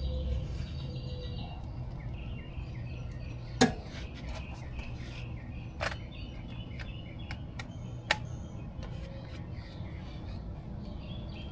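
Birds chirping in the background, broken by a few sharp clinks of hand tools on the ATV's oil pump drain plug, the loudest about three and a half seconds in and two more near six and eight seconds.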